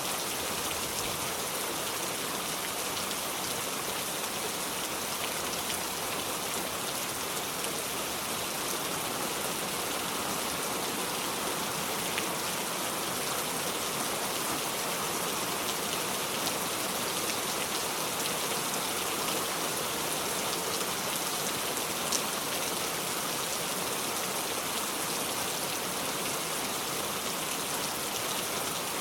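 Steady heavy rain falling, a constant even hiss with scattered drop ticks and no thunder.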